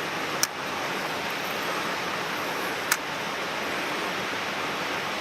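Rushing mountain stream: a steady hiss of fast-flowing water, with two short sharp clicks, about half a second in and near the three-second mark.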